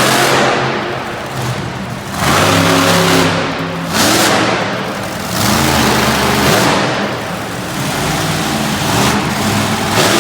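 Tiger Shark monster truck's engine revving hard, surging and falling off again every couple of seconds as the truck is driven in a freestyle run.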